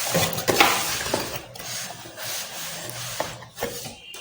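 Paper and packaging rustling and rubbing as items are lifted out of a camera box, with a few light knocks.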